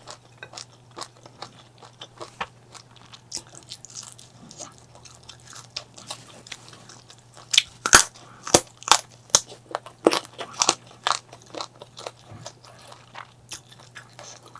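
Close-miked eating: crisp crunching bites and chewing, with a denser run of loud crunches from about 7.5 to 11 seconds in.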